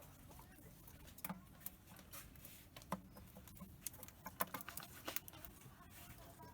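Cockatiel pecking at and husking spilled seeds: faint, irregular small clicks of its beak.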